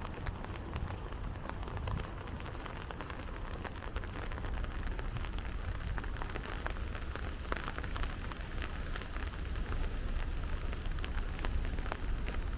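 Steady rain falling, with many small drop ticks over a steady low rumble.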